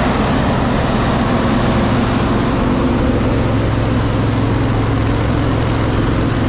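Combine harvester running steadily while combining corn: a constant engine and machinery drone with a low, even hum.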